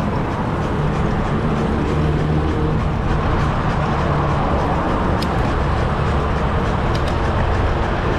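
Busy city road traffic: vehicle engines humming steadily over road noise, with a short high squeak about five seconds in.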